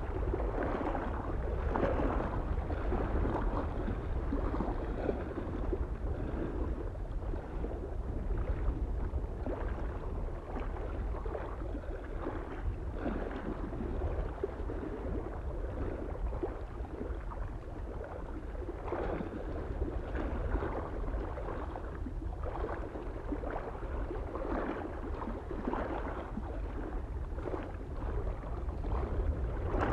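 Small waves lapping and splashing against a lake shore in irregular bursts, over a steady low rumble of wind on the microphone.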